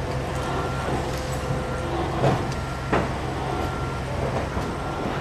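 Roofing work overhead: a steady low machine hum, with sharp knocks about two and three seconds in.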